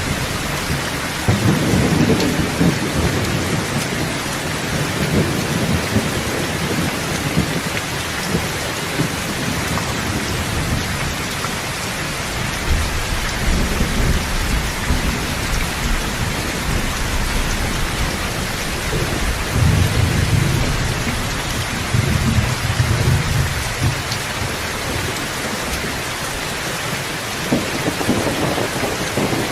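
Steady rain, with low rolls of thunder swelling and fading several times.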